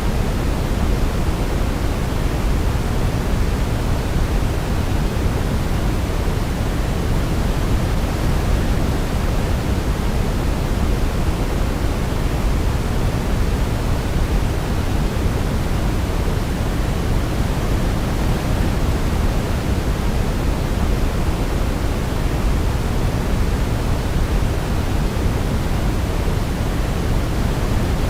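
Steady white-noise track for baby sleep: an even, unbroken hiss, weighted toward the deep end. No melody can be picked out.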